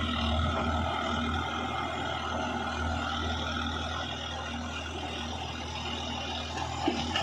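Heavy diesel engine running steadily under load, with a deep low drone and a steady hum. A couple of short squeaks come near the end.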